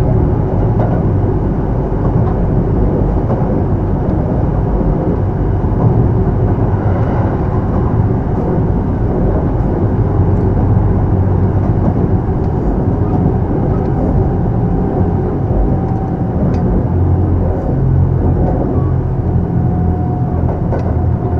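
Kintetsu 3200 series electric train running at speed, heard from inside the car: a steady rumble of wheels on rail, with a faint whine coming in near the end.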